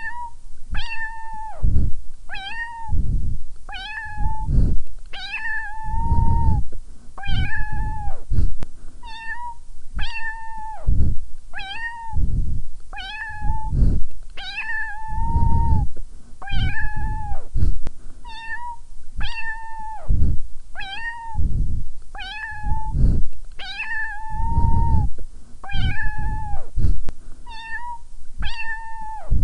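Domestic cat meowing over and over in short, evenly paced calls, about one every second and a quarter. Each call holds a fairly level pitch and dips at its end, with a low rumble under it.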